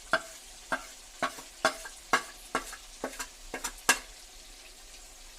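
A spoon knocking against the pot about twice a second while stirring chicken frying with ground spices, over a faint frying sizzle. The knocks stop about four seconds in.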